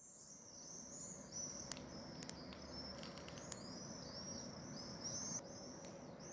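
A small bird chirping in a steady string of short, high notes over a faint low background rumble, with a few sharp clicks.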